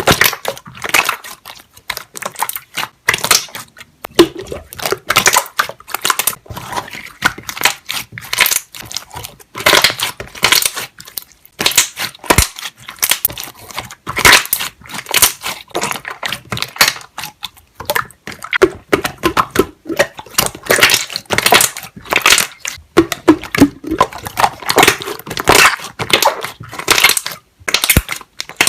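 Slime being pressed and squeezed, its trapped air bubbles popping in quick, irregular crackling pops.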